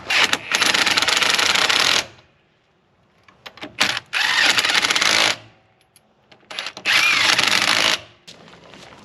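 Impact wrench running lug nuts onto a wheel in three bursts, the first about two seconds long and the next two about a second each, with short pauses between.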